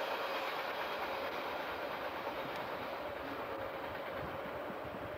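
Train's rear cars rolling away on the rails, the rumble slowly fading as the train recedes, with a faint steady tone running under it.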